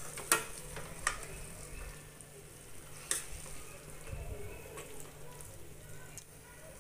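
Prawns being stir-fried in a thick masala in a stainless steel kadhai: a soft steady sizzle, with a steel spoon scraping and clicking against the pan as it stirs. The sharpest knocks come just after the start and about three seconds in.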